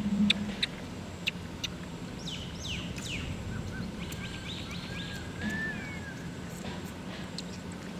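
Birds chirping outdoors: a few quick falling chirps, then a short run of rapid chirps and a faint whistle, over a steady low background hum, with a few sharp clicks in the first second or so.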